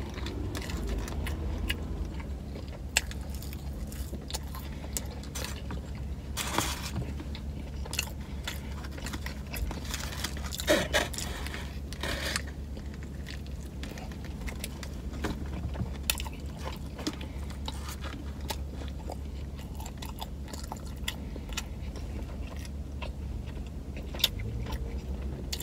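Close-up eating sounds: a person biting into and chewing a chicken teriyaki Philly sub with lettuce and grilled onions, and a fry, with small wet mouth clicks and a few louder bites and rustles around the middle. Under it runs a steady low hum inside the car.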